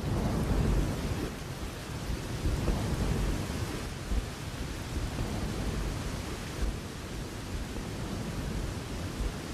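Thunder rumbling during a rainstorm, loudest in the first second or two and again around three seconds in, then fading, over the steady hiss of falling rain.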